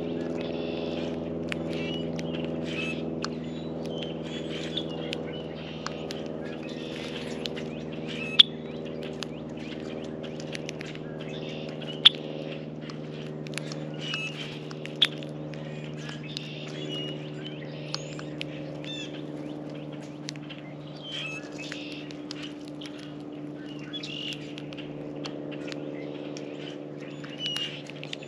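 Small birds at a feeder chirping and calling, with scattered sharp clicks, three of them louder than the rest, over a steady low hum.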